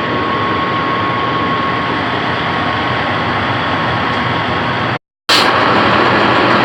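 Heavy diesel engine idling steadily beside a semi truck, a dense steady hum with a thin steady whine over it. The sound cuts out completely for a moment about five seconds in, and the whine does not come back.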